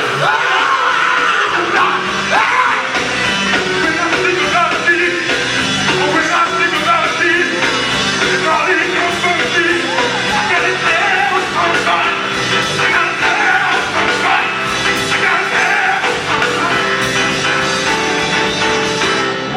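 Gospel singing group performing live, voices singing over a full band accompaniment.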